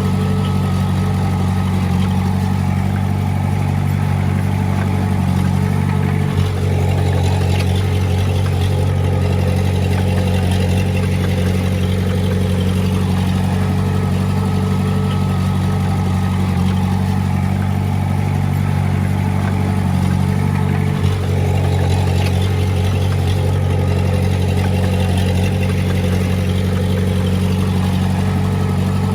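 Heavy-equipment diesel engine running steadily, with a low, even drone and two very brief dips about 6 and 21 seconds in.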